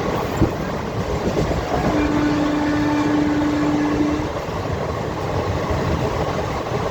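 Indian Railways express train running at speed: a steady rumble and rattle of the train on the track. About two seconds in, a single steady tone sounds for about two seconds, and there is a sharp click about half a second in.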